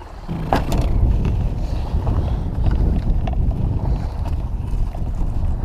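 Wind buffeting the camera microphone, a loud low rumble, with a knock about half a second in and a few lighter clicks.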